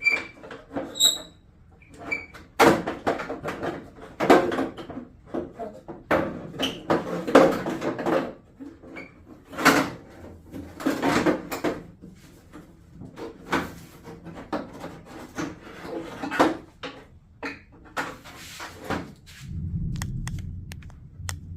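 Plastic shrouds of an exercise bike being handled and fitted back on, giving irregular knocks, clicks and clatter. A low rumble comes in briefly near the end.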